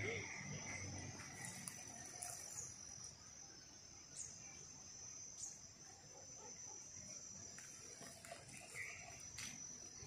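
Insects chirring in a faint, steady high tone, with a few light clicks scattered through.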